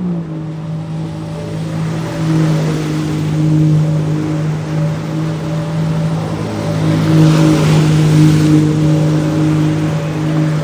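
Jet ski engine running at a steady pitch under a broad rushing noise, its pitch dipping slightly at the start. The rushing swells louder about seven seconds in.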